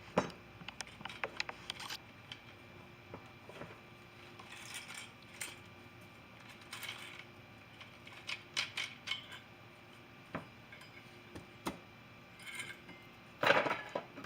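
Old motocross clutch parts, metal plates and basket, clinking and rattling as they are handled: scattered light clicks and short clatters, with the loudest clatter near the end.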